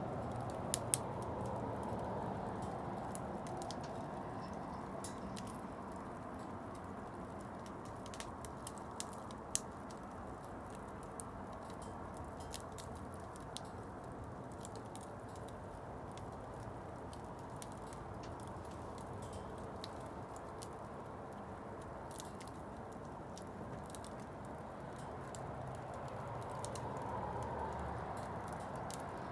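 Wood bonfire burning: a steady low rush with scattered sharp crackles and pops from the burning wood. A few louder pops come right near the start and about nine and a half seconds in.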